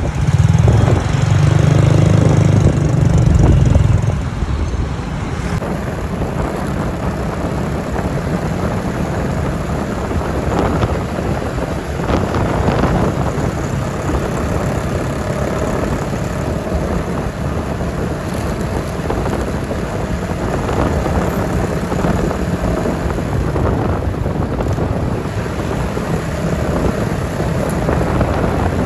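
Motorbike riding through city traffic: steady engine and road noise, with a louder low rumble for the first four seconds.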